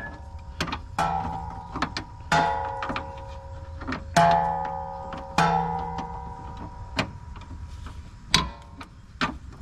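Metal tools clanking: a series of sharp metallic knocks, several of them ringing on briefly like struck steel.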